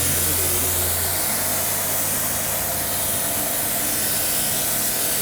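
Electric pressure washer spraying foam through its foam lance: a steady hiss of spray that swells and fades slightly as the jet moves, with a low hum that drops away about a second in.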